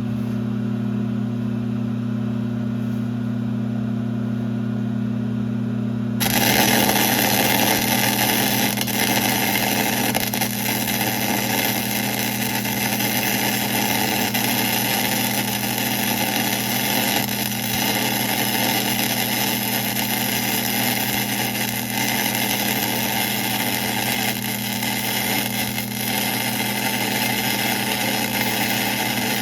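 1966 LeBlond geared-head lathe running with a steady low hum. About six seconds in, a loud, even hissing noise joins it and continues.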